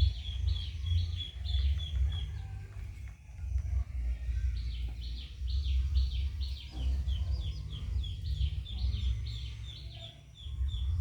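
A bird chirping over and over, about three to four short high chirps a second, over a steady low rumble.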